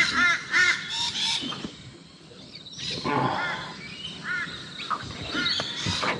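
A bird calling over and over in short arched calls, several a second, in two bouts: one at the start and one about three seconds in.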